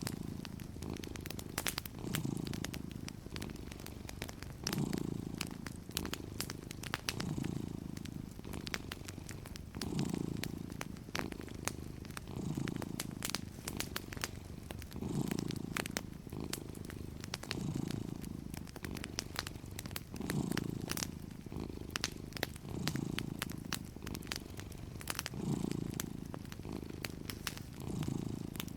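A sleeping cat purring steadily, the low purr swelling and easing with each breath about every two and a half seconds. Soft fireplace crackles pop throughout.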